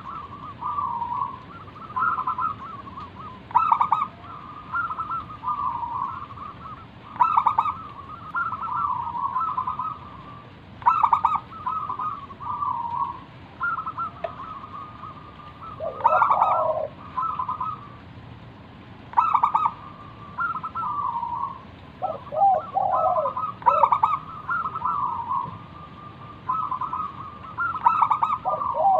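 Zebra dove (perkutut) singing its cooing song, a phrase repeated about every four seconds, each opening with a sharp accented note and trailing off in a run of soft coos. Lower-pitched calls overlap twice, about halfway through and again a few seconds later.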